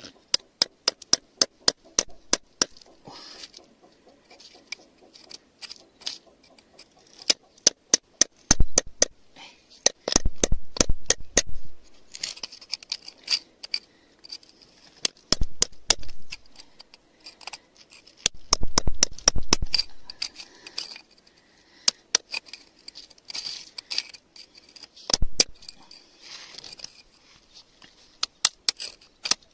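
Small pieces of glass clinking and knocking together in quick runs of sharp clicks, with a few dull low thumps in between.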